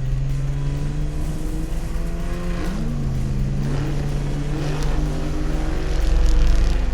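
Cartoon car engine sound effects: engines running and revving, their pitch rising and falling, with more than one engine overlapping. A heavier low rumble comes in near the end.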